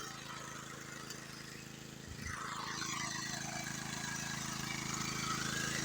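An engine running steadily with a low, even hum. It gets louder from about two seconds in.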